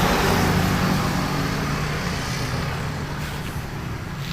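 A motor vehicle passing and fading away, its engine and road noise dying down over a few seconds.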